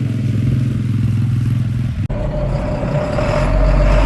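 Farm vehicle engine running steadily. About two seconds in the sound changes abruptly to a deeper engine rumble with a steady whine above it.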